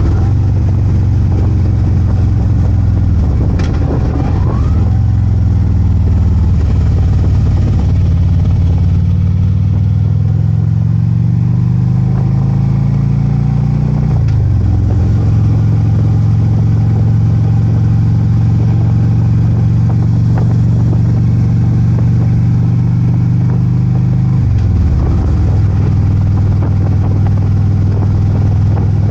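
Harley-Davidson Ultra Limited V-twin engine running under way. It climbs in pitch as the bike accelerates, drops sharply at an upshift about halfway through, holds a steady cruise, then dips and picks up again near the end.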